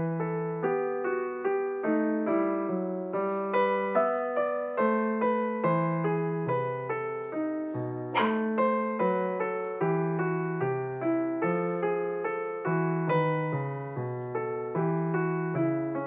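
Background piano music: a melody of evenly paced notes, each fading after it is struck.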